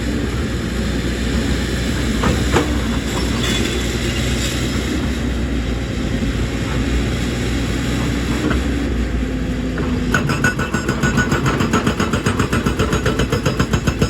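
Excavator's diesel engine running under load, with a few sharp knocks; about ten seconds in a fast, even metallic clatter of roughly six strokes a second starts up.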